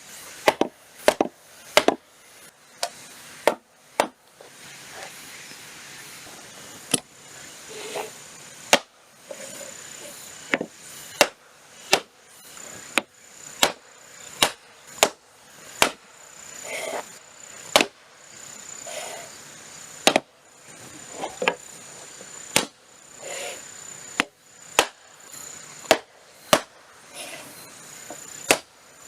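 Wooden joinery members of a small timber frame being knocked into their joints, a long run of sharp wooden knocks at roughly one or two a second with uneven spacing. A faint steady high-pitched tone runs underneath through much of it.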